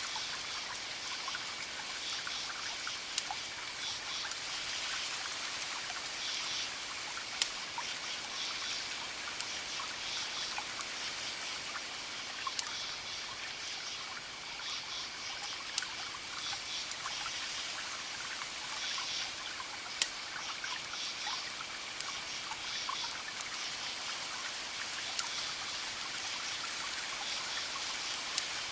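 Campfire crackling with scattered sharp pops, a few louder than the rest, over crickets chirping with a steady high trill and repeated pulsing calls, and a soft steady wash of distant ocean waves.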